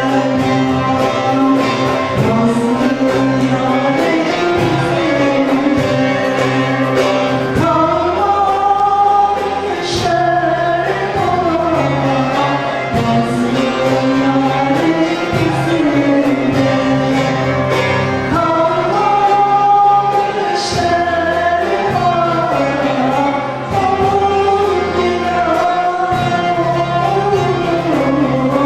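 Turkish folk music choir singing a folk song with instrumental accompaniment: a sung melody over steady low notes and an even rhythmic pulse.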